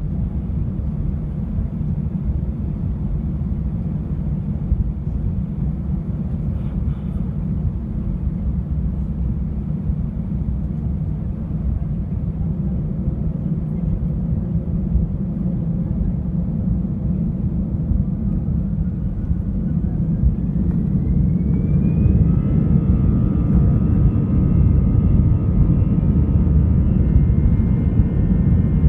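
Airbus A319 jet engines running with a steady low rumble; about two-thirds of the way through, a whine rises in pitch and then holds steady while the sound grows slightly louder, as the engines speed up.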